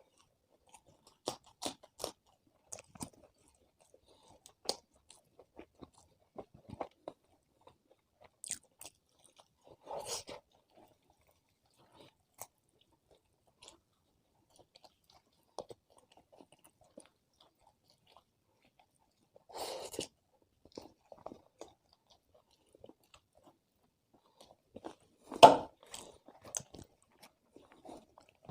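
Close-miked eating sounds of a person chewing and crunching food: scattered small wet clicks, with louder crunching bites about ten, twenty and twenty-five seconds in, the last the loudest.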